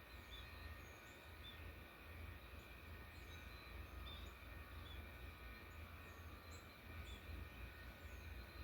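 Faint, scattered high chirps and short calls from small birds, several a second, over a steady low rumble.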